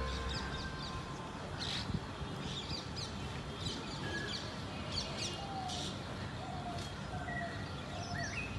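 Birds chirping: many short, quick high chirps, joined in the second half by a run of short lower notes repeated every second or so, over a steady background hiss.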